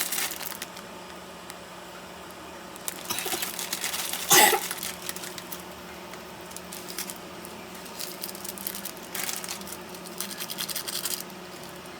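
Scattered scratching and rustling handling noises over a faint steady low hum, with one sharp louder knock a little over four seconds in.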